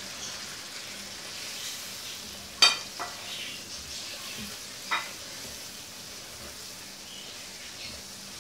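Green chillies and whole spices sizzling in hot oil in a non-stick kadai while a spatula stirs them, with a steady crackling hiss. Two sharp clicks stand out, about two seconds apart, the first being the loudest moment.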